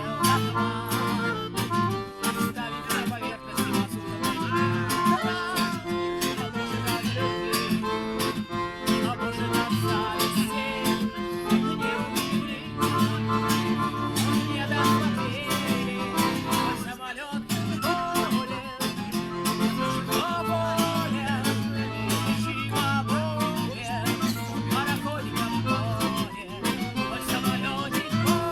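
Live performance of a song on strummed acoustic guitar, with a melody line played over the chords.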